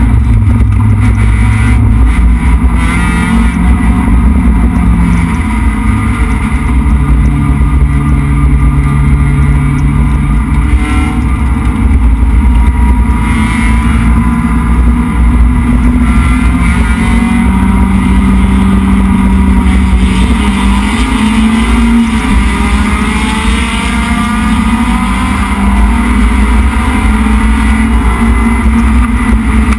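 A Dodge Neon's SOHC 2.0-litre four-cylinder race engine heard from inside its stripped, caged cabin under racing load. The engine note climbs and drops in steps as the car accelerates, shifts and lifts for corners.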